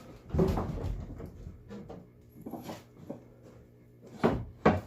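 Wooden floorboards being handled and fitted into a boat, with a clatter of knocks and rubbing in the first second, a few light knocks in the middle and two sharp knocks near the end.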